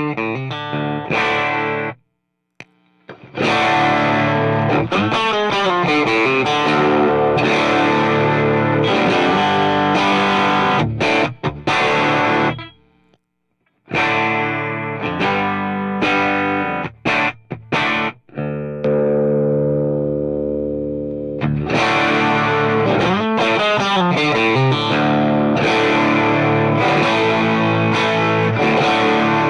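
Overdriven electric guitar on a Strat's bridge pickup, driven by an Xotic RC Booster set for high gain, boosted treble and cut bass, playing a gritty country-rock riff. The chords have bent notes, the playing stops briefly about 2 s and 13 s in, and one chord rings out for a few seconds past the middle.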